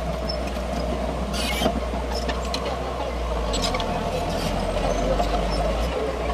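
Heavy diesel earthmoving machine running steadily under work, with light metallic clinks and squeaks over it. Its low engine note shifts about halfway through.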